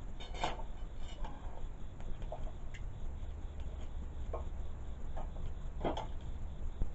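A few sparse, sharp clicks and knocks of wood, about half a dozen spread over several seconds, over a low steady rumble.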